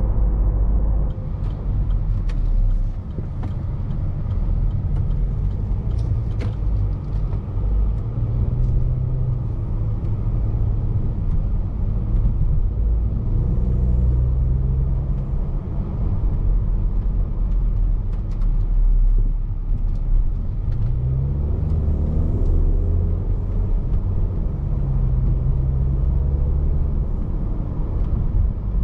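Range Rover Evoque's 2.0-litre turbocharged petrol engine and road noise heard from inside the cabin while driving. The engine note rises and falls as the automatic gearbox works through the gears, with a clear rising pull a little past two-thirds of the way in. A few faint ticks are heard in the first several seconds.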